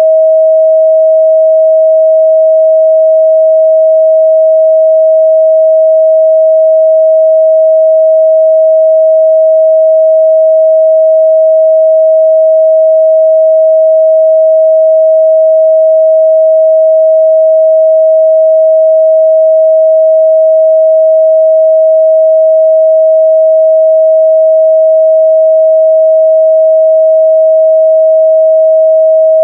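A steady, loud 637 Hz pure sine-wave test tone, held at one pitch and level without a break.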